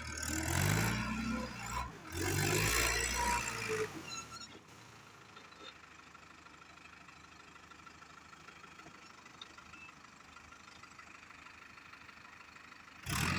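Tractor engine revving hard twice in the first four seconds, its pitch climbing each time, then falling to a much quieter steady sound until it comes up loud again right at the end.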